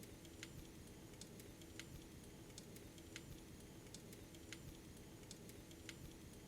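Faint, fairly regular clicking, about one click every two-thirds of a second, over a low steady hum.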